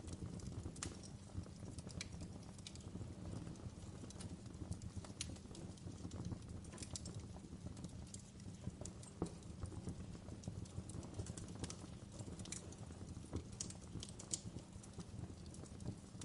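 Wood fire in a fireplace crackling: irregular sharp pops and crackles over a low, steady rumble of the burning fire.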